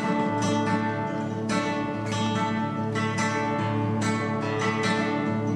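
Acoustic guitar being strummed and picked, notes ringing steadily.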